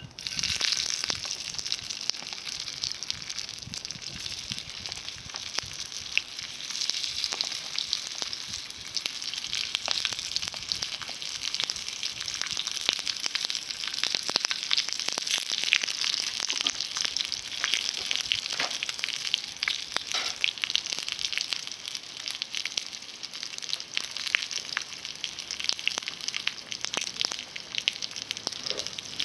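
Steady, dense sizzling with many sharp little pops and crackles, starting abruptly: food frying in a pan over a small fire of climbing-rose twigs.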